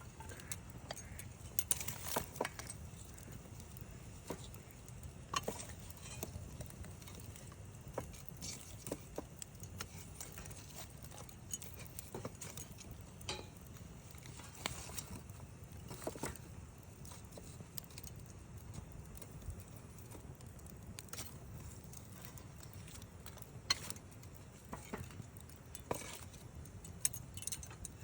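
Wood campfire crackling, with irregular sharp pops and snaps, a few louder than the rest, over a low steady rumble.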